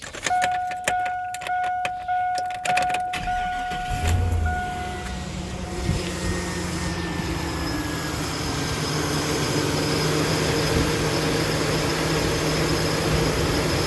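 A truck's warning chime dings repeatedly. About four seconds in, the 1999 GMC Sierra's engine cranks briefly, catches and settles into a steady idle with no lifter tick heard, the tick having gone once the low oil was topped up.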